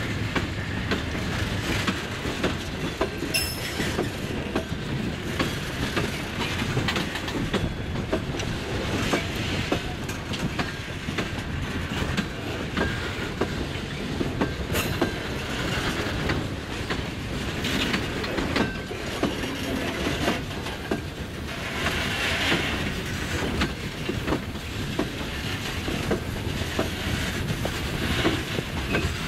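Freight train of boxcars and a covered hopper rolling slowly past close by: steady rumble of steel wheels with clickety-clack and clanking over the rail joints, and a few brief wheel squeals in the middle.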